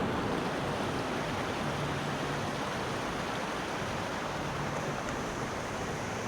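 Steady rush of water at a mountain waterfall, an even noise with no breaks.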